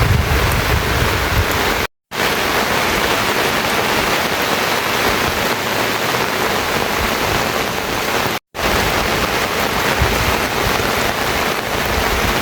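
Steady heavy rain, a dense even hiss that cuts out completely for a moment twice, about two seconds in and again about eight and a half seconds in.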